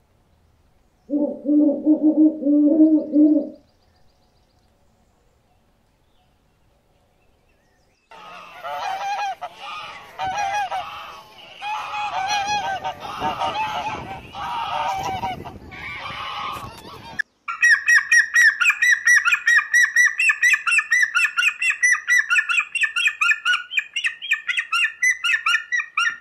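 A string of separate animal calls, mostly birds. First a low, steady call of about two seconds. Then harsh honking calls for about nine seconds, goose-like. Then a rapid run of high chirps, about four a second.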